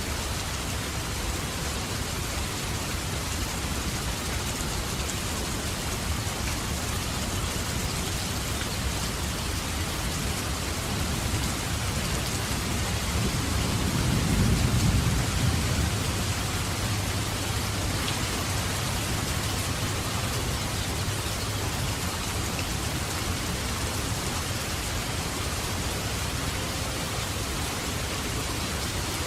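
Steady, heavy rain falling, with a low rumble of thunder that swells and fades about halfway through.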